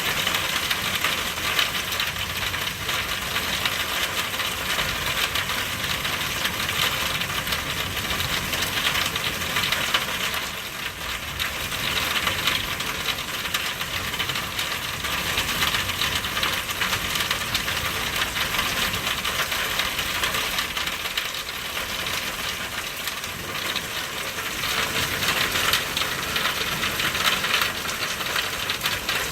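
Steady rain falling, a dense ticking of raindrops striking hard surfaces.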